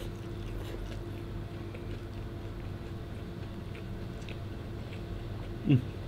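A person chewing a mouthful of rice, noodles and shredded chicken, with faint wet mouth clicks, over a steady low hum. Near the end comes a short falling 'mm' from the eater.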